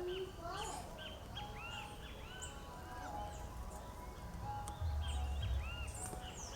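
Several birds calling together, a busy run of short, arched, repeated chirps with a few higher thin notes. A low rumble comes in about five seconds in.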